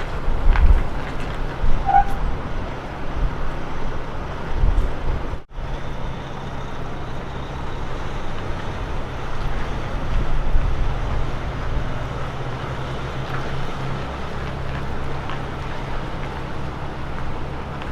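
Road train prime mover's diesel engine running with a steady low drone, with tyre and road noise, cut off briefly about five and a half seconds in.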